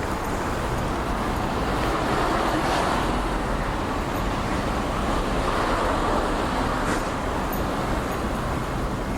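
Road traffic: a steady hum of tyres and engines, swelling twice as cars pass by.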